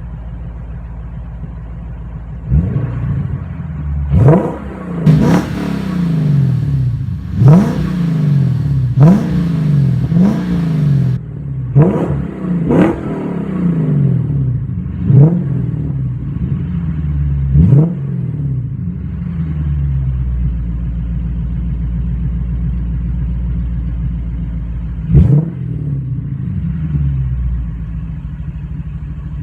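2008 Lexus IS F's 5.0-litre V8 through a Borla cat-back exhaust with gutted primary catalytic converters. It idles and is revved in about a dozen quick throttle blips, each climbing sharply and dropping back to idle. Most blips come in the first half, with one more near the end.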